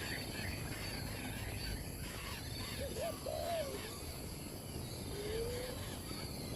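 Wild birds calling: two short, low arched calls about three seconds in and a longer, slowly rising low call near the end, with thinner, higher chirps in the first seconds over a steady background hiss.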